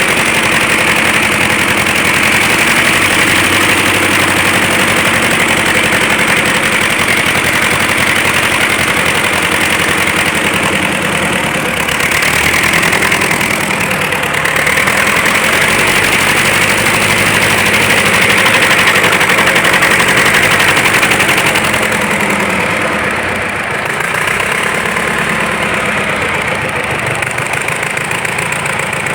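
Engine of a DT-75 crawler tractor running steadily after a major overhaul, the revs swelling and easing slightly now and then.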